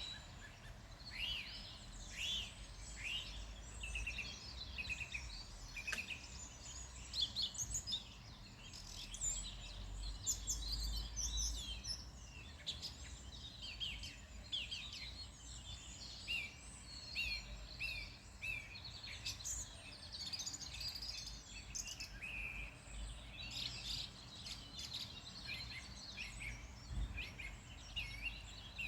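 Several small songbirds chirping and singing throughout, a busy overlap of short, quick high notes and trills, over a steady low background rumble.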